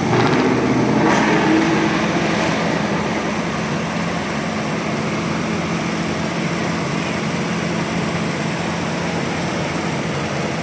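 An engine running steadily, with a low hum under a general noise, a little louder in the first couple of seconds.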